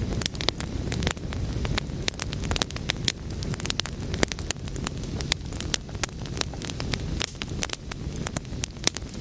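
Wood fire burning, with a steady low rumble of flames under many quick, sharp crackles and pops.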